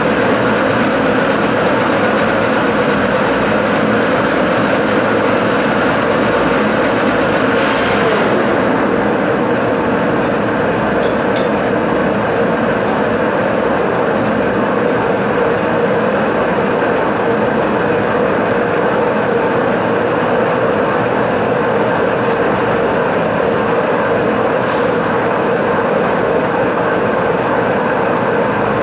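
Steady, loud mechanical noise of a machine running continuously, with a constant hum under an even roar. A short hiss rises about eight seconds in.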